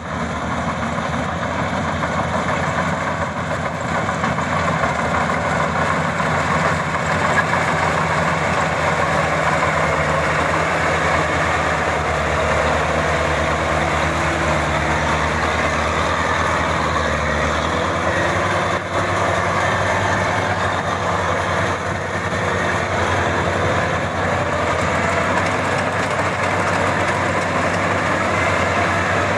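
Maxxi 85 combine harvester's engine and machinery running steadily. About 17 seconds in, its low note changes.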